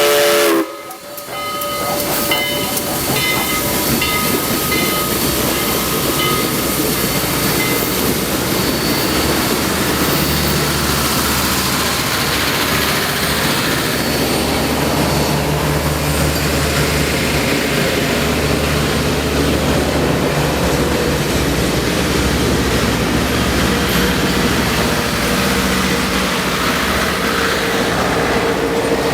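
Southern Railway 2-8-2 steam locomotive 4501 working, a loud steady hiss of steam and running noise with a low hum underneath. A steam whistle chord cuts off right at the start.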